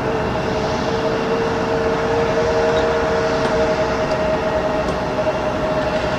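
Airbus A320-214's CFM56 turbofan engines at takeoff thrust: steady jet noise with a steady hum, one of its two tones fading about four seconds in.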